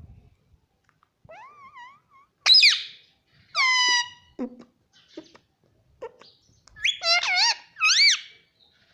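Ringneck parrot giving shrill squeaky calls and whistles, each rising and falling in pitch. A soft warble comes first, then two loud calls, a few small clicks, and near the end a quick run of three or four wavering squeaks.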